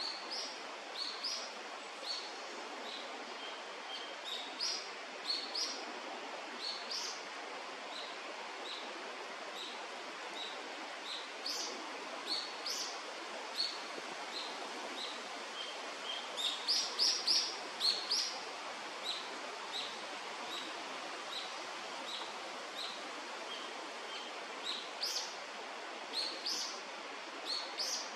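Birds calling: short high chirps and quick rising notes scattered throughout, with a denser run of calls just past the middle, over a steady outdoor hiss.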